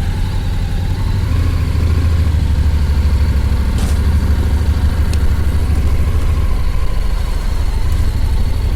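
Vehicle engine running with a steady low rumble that gets a little louder about a second in.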